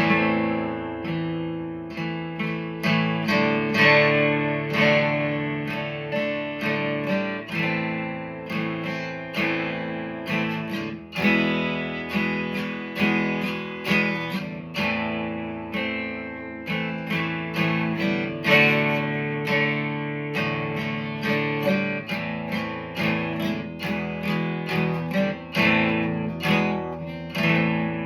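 Acoustic guitar strumming chords steadily, an instrumental introduction to a song.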